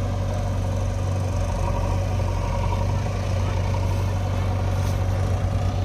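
Diesel engine idling steadily with a constant low hum.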